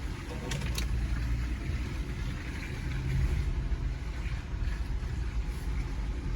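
Jeep Gladiator Rubicon's 3.6 Pentastar V6 running at low trail speed, a steady low rumble heard from inside the cab. A couple of short clicks about half a second in.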